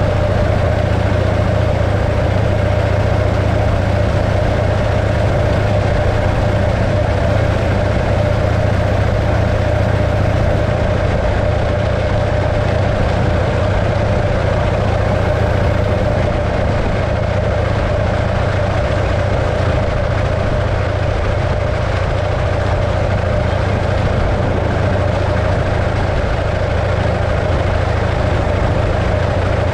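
The 1915 Arcade motorcycle's 650cc JAP V-twin engine running at a steady, unchanging speed.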